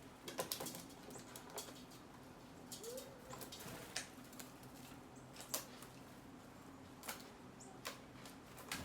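Birds feeding: faint scattered pecking taps and wing flutters, with a few short chirps and one short low call about three seconds in.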